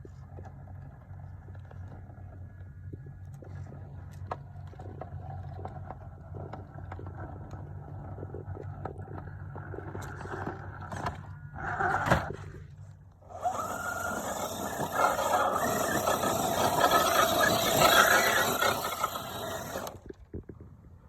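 Radio-controlled truck running on a test drive with its gears and spool freshly replaced: a mechanical whir and scrape of the drivetrain, with a loud short burst about halfway through, then louder running for several seconds that stops near the end.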